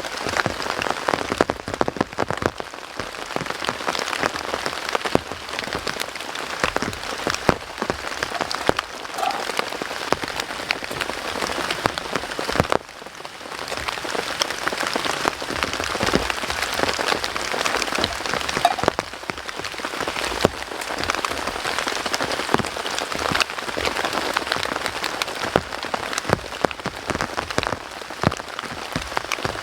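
Heavy rain falling steadily, with a dense, irregular spatter of sharp drop impacts that eases briefly a little before halfway.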